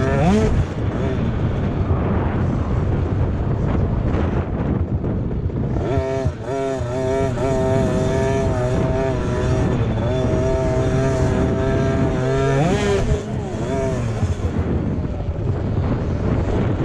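Motocross dirt bike engines running hard: revving up, holding and wavering in pitch through throttle changes, with a sharp rising rev just after the start and again near the end.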